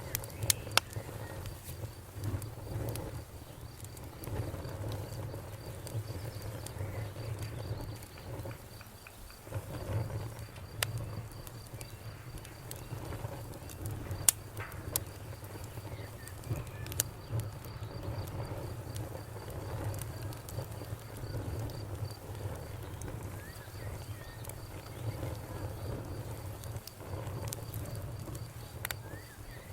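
Campfire burning with irregular sharp crackles and pops of wood over a steady low rumble of flame.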